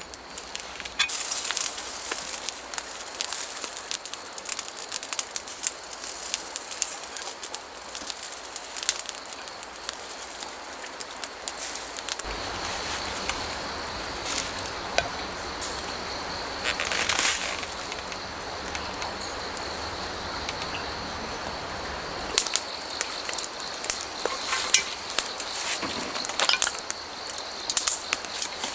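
Firewood burning in a campfire, crackling with many sharp pops over a steady hiss. A thin, steady high chirring joins about twelve seconds in.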